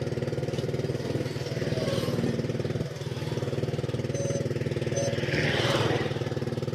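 An engine running steadily with a rapid, even beat. Faint short high beeps come twice in the middle.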